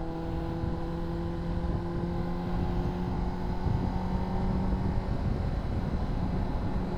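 Honda CBR600RR's inline-four engine running at steady revs under way, holding one even pitch over a low rumble.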